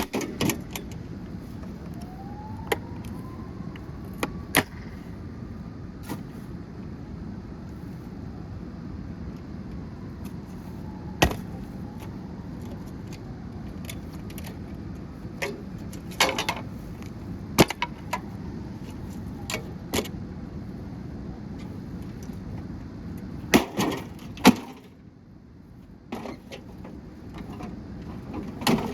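Scattered sharp clicks and knocks of tools and loose parts as a gutted microwave oven is pulled apart, a dozen or so spread irregularly over a steady low background rumble. The rumble drops away for a moment near the end.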